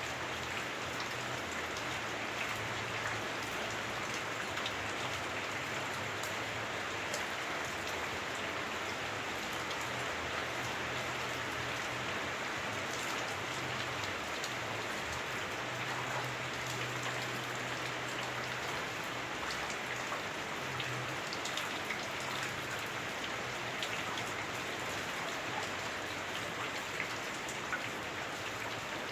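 Heavy rain on a house roof, heard from inside: a steady, dense patter with scattered sharper drops.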